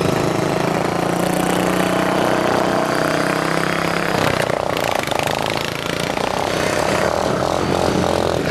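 Racing lawn mowers' single-cylinder overhead-valve engines running steadily, their pitch shifting about four seconds in.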